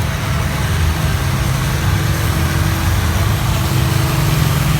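Farmall 560 tractor engine running at a steady speed, deep and even, with no revving up or down.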